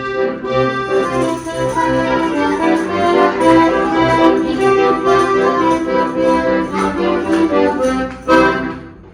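Accordion playing a Russian folk-style tune with full chords, ending on a loud final chord shortly before the end.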